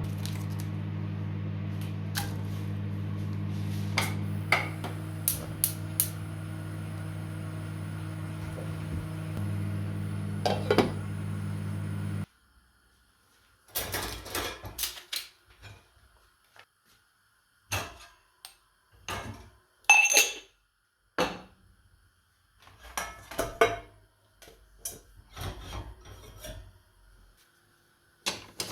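A kitchen appliance hums steadily with a few light clicks, then cuts off abruptly about twelve seconds in. After that come scattered clatters and knocks of dishes and kitchen utensils being handled, with short quiet gaps between them.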